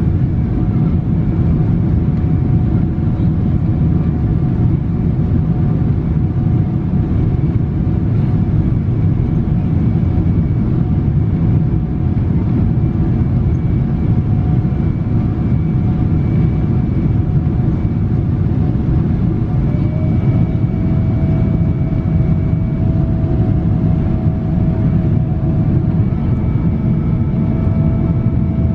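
Steady cabin rumble of a Boeing 777-300 in flight, from the engines and the airflow over the fuselage, heard from a rear window seat. It carries a faint steady engine whine, and one tone rises slightly about two-thirds of the way through.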